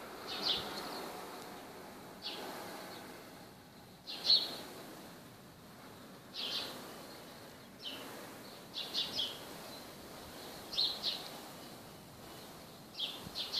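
Small birds chirping: short high chirps, singly or in quick clusters of two or three, every second or two, over a faint steady outdoor background hiss.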